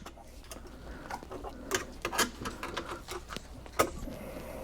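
Scattered sharp clicks and light knocks, irregular and a few seconds apart, from tools and small parts being handled during work on a garbage disposal's wiring.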